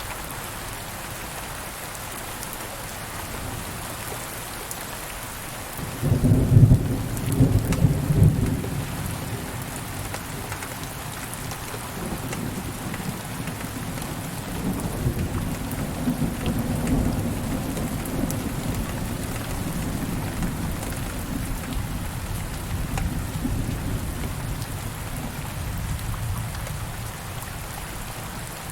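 Steady rain with a thunderclap about six seconds in, followed by a long rolling rumble of thunder that slowly fades.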